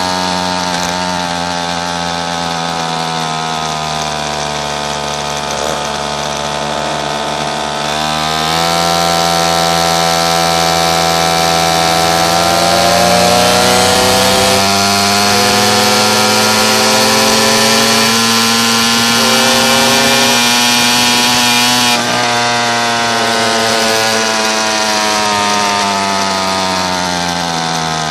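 Pocket bike's small engine running under way. Its pitch steps up about a third of the way in, climbs and holds high through the middle, then sinks gradually near the end as the throttle eases off.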